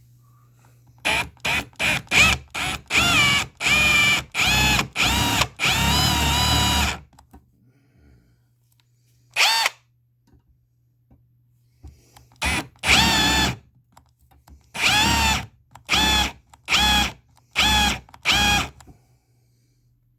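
Cordless drill drilling out the rivets on a metal mounting bracket, run in repeated trigger bursts from a fraction of a second to about two seconds long, its motor whine rising and sagging in pitch with each pull. Two runs of bursts are separated by a pause of several seconds.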